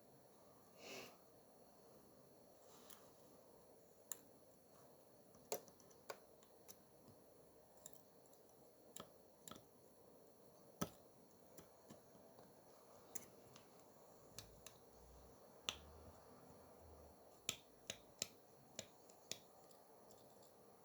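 Faint, sharp clicks and taps at irregular intervals, about twenty in all: small tools and parts being handled during a watch repair at a bench.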